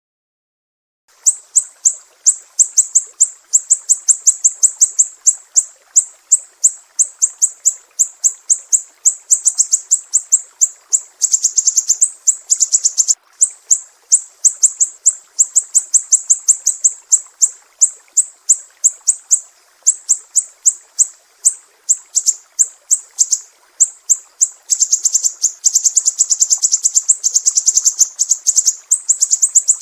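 Sumatran siri-siri songbird singing a fast series of high, sharp chirps, several a second, beginning about a second in, with denser trilling runs near the middle and toward the end.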